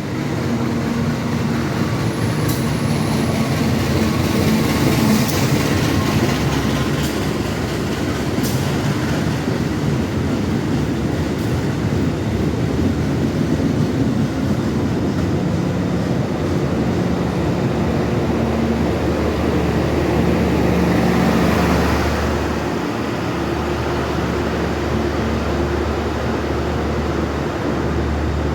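An Indonesian train passing straight through without stopping, a continuous loud rumble of wheels on rail with a few sharp clicks in the first several seconds. It eases off slightly after about twenty seconds.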